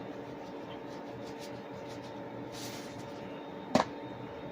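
A short shake of powdered Creole seasoning from its container, then a single sharp knock, over a steady low hum.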